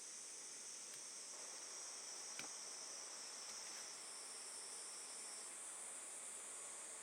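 Steady high-pitched chorus of insects, with one of its tones stopping a little after five seconds in, and a single faint click about two and a half seconds in.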